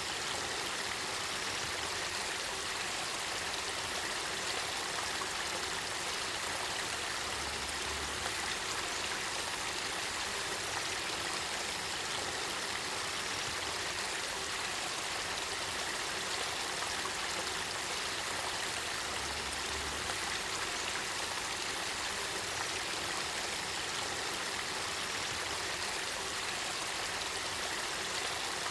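Spring-fed river water flowing and burbling in a steady, even rush.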